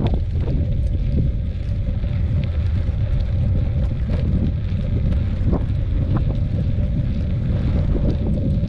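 Wind buffeting the microphone while riding a mountain bike: a loud, steady low rumble with a few short rattles from the bike.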